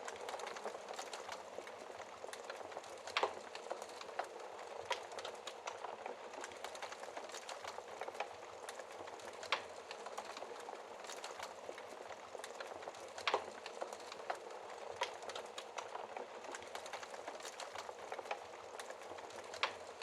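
Fire crackling in a fireplace: a dense, steady run of small ticks and hiss with four louder pops spread through it.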